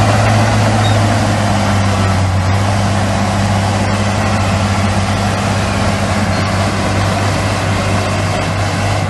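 Heavy construction machinery's diesel engine running steadily with a deep, even hum.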